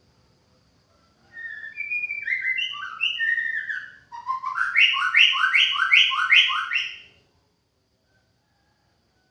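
White-rumped shama singing. It opens about a second in with a phrase of varied clear whistled notes, then after a short break gives a fast run of about seven repeated slurred notes, and stops abruptly.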